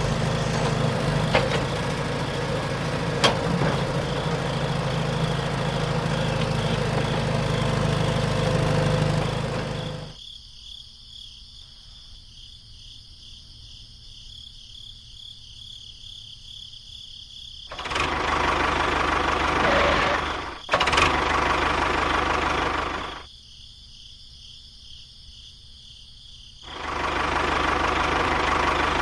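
A small engine running steadily. About ten seconds in it drops to a faint, muffled hum, comes back loud around eighteen seconds, drops again around twenty-three seconds and returns near the end. There is a single sharp knock about twenty-one seconds in.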